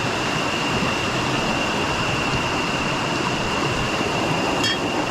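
Steady rush of river water, with a constant high-pitched whine over it and a brief high chirp near the end.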